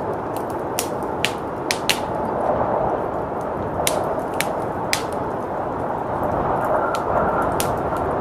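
Wood fire crackling, with sharp irregular pops and snaps, over the steady rush of blizzard wind; a faint thin whistle of wind comes in near the end.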